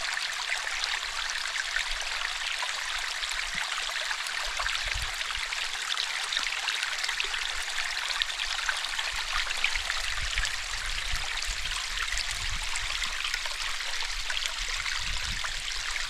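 Steady rush of running stream water, a constant hiss with fine splashy ticks, and irregular low thuds from about a quarter of the way in.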